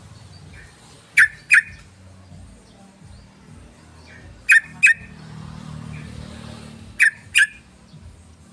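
Yellow-vented bulbul (trucukan) calling: three pairs of short, harsh notes, the pairs about three seconds apart, over a faint low hum.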